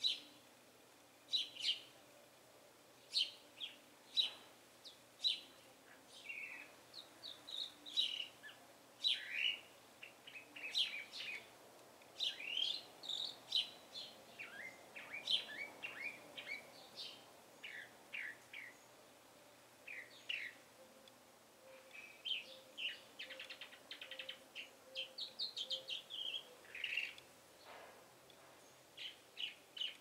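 Songbirds chirping and calling: many short, high chirps and quick trills, some rising and some falling, coming thick and fast, with brief pauses.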